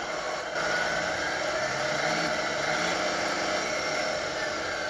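Simulated truck diesel engine sound played through the small speaker of a GT Power Truck Light & Sound Pro RC sound module. It runs steadily, rises in pitch about half a second in as if throttled up, and falls back near the end.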